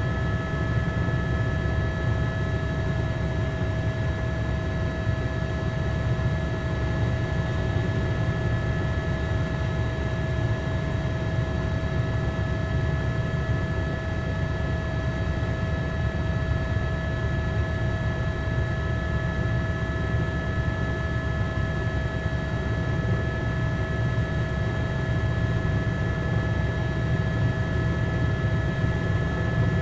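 Steady low mechanical drone with a few constant whining tones above it, unchanging throughout; no firework bangs are heard.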